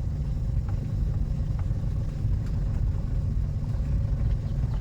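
Steady low rumble of a manual car's engine and road noise as it moves slowly in low gear.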